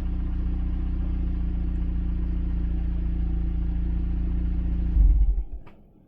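Toyota RAV4's 2.5-litre four-cylinder idling steadily through an aFe Takeda axle-back exhaust, a low, mellow drone. About five seconds in it is switched off with a brief shudder and dies away, leaving a few faint clicks.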